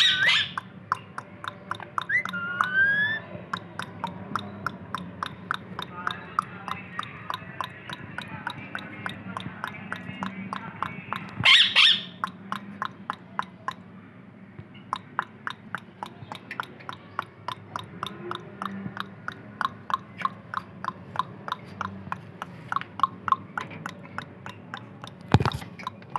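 Indian ringneck parakeet calling: a couple of short rising whistles near the start and one loud harsh squawk about halfway through. Under it runs a steady rapid clicking, about three clicks a second.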